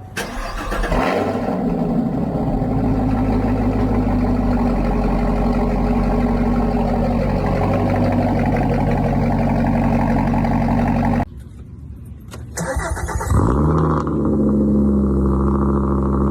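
Two car engines cold-starting one after the other. The first catches about a second in and settles into a steady fast idle. After a sudden cut about eleven seconds in, a second engine starts about a second later, revs briefly and settles into a steady idle.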